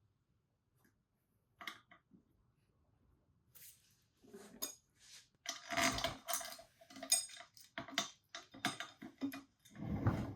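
Steel tool parts (a socket, a press plate and a needle roller bearing) clinking and knocking together and against the aluminium swingarm as they are juggled into line for pressing. It is quiet at first, then a quick string of sharp clinks, some of them ringing briefly, starts about three and a half seconds in.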